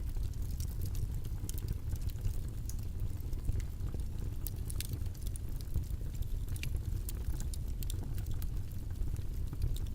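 A steady, low rumbling noise track with scattered small, sharp clicks and taps over it.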